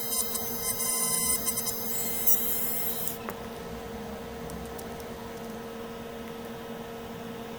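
A small bench blower hissing with a steady whine and a few clicks, switched off about three seconds in, leaving a steady electrical hum.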